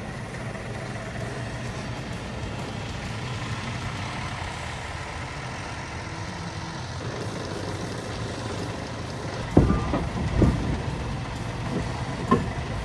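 Scania truck's diesel engine running steadily, with a few loud clunks about ten seconds in and again near the end.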